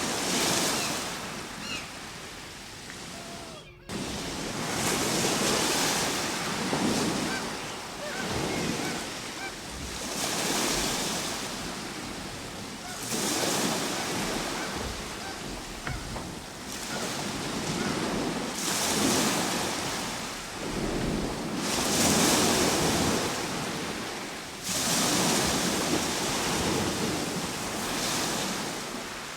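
Ocean waves breaking and washing in, the surf surging and ebbing every three to five seconds. The sound drops out briefly about four seconds in.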